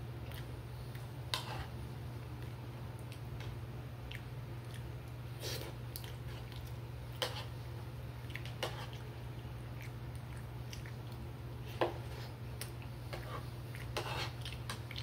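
A person chewing and eating scrambled eggs close to the microphone, with about six short sharp clicks as the spoon works the plate, over a steady low hum.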